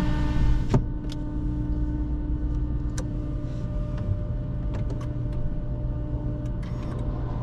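Steady low vehicle hum heard inside a car's cabin. A sharp knock comes under a second in, after which the higher part of the hum drops away and the hum runs on quieter with a few faint scattered clicks.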